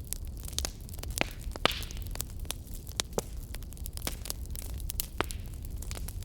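Fireplace fire crackling, with frequent irregular sharp pops over a low steady rumble of burning. A brief hiss about a second and a half in.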